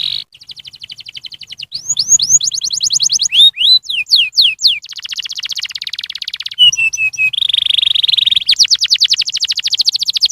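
Domestic canary singing a continuous high-pitched song of rapid trills, each phrase a fast run of repeated notes, switching to a new phrase every second or two, with some sweeping downward notes.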